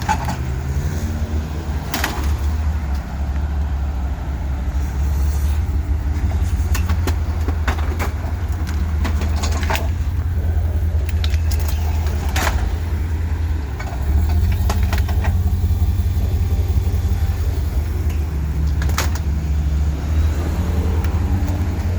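Motor vehicle engines running, a steady low rumble with a faint hum that comes and goes. Scattered sharp clicks run through it.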